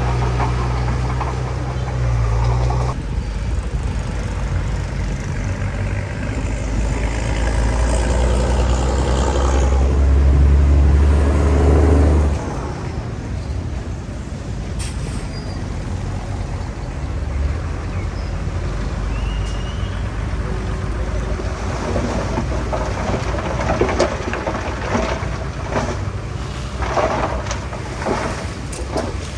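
Heavy diesel earthmoving machinery running loudly, with a deep engine hum that shifts about three seconds in and drops away suddenly about twelve seconds in, leaving a steadier rumble with scattered knocks.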